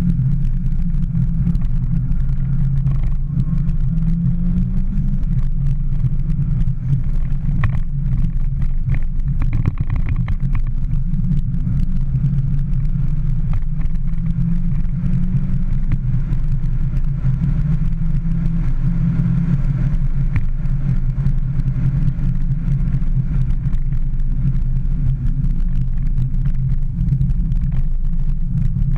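Mini Cooper S engine and drivetrain heard from inside the cabin while it is driven hard on a track: a loud, steady low drone whose pitch rises and falls as the car speeds up and slows.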